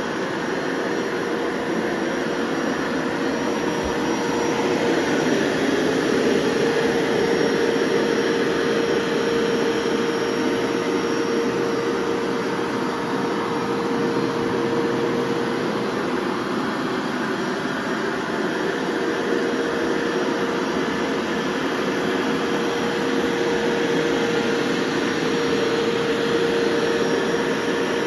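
Bissell StainPro 4 upright carpet washer running steadily as it is pushed over the carpet, its motor making a constant hum under a loud rush of suction.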